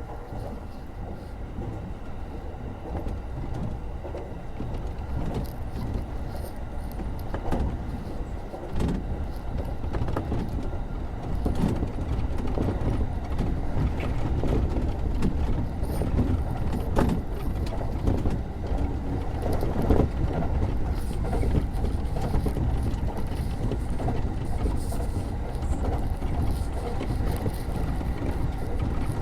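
Electric commuter train running on the line, heard from inside the car: a steady low rumble of wheels on rail with scattered short clicks and rattles. It grows louder over the first ten seconds or so as the train picks up speed, then holds steady.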